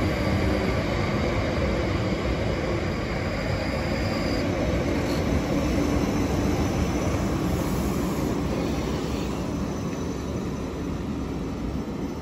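Pair of Class 458 Juniper electric multiple units rolling slowly past and slowing as they arrive at the platform: a steady rumble of wheels on rail that fades gradually, with a faint high whine that stops about four seconds in.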